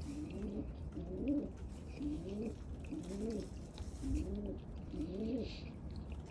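Domestic pigeons cooing: a low, rolling coo repeated about once a second.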